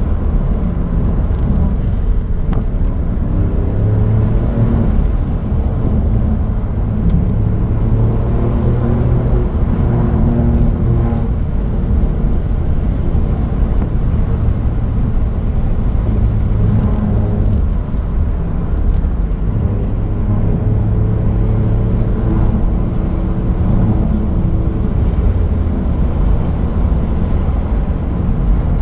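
Alfa Romeo Giulia Quadrifoglio's 2.9-litre twin-turbo V6 heard from inside the car at stage pace. The engine's pitch rises and falls repeatedly as the car accelerates and slows, over a constant low rumble of road and tyre noise.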